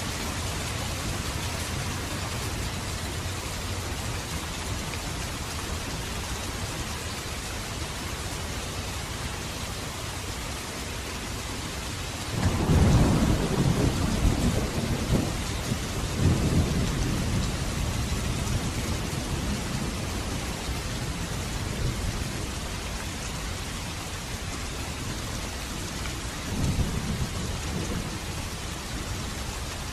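Steady heavy rain, with a loud rumble of thunder breaking in about halfway through and rolling on in surges for several seconds, then a fainter rumble near the end.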